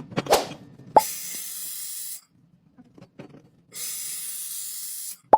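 Welding arc hissing in two bursts of a second or so each, both starting and stopping sharply, with a short sweep and a click just before the first.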